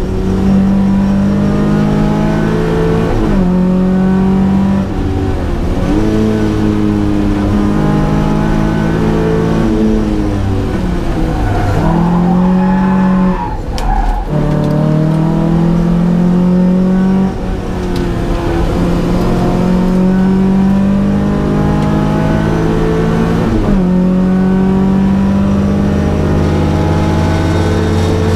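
Datsun P610 rally car engine driven hard, its pitch climbing and dropping back again and again as it shifts gears and comes on and off the throttle, with two brief lifts near the middle.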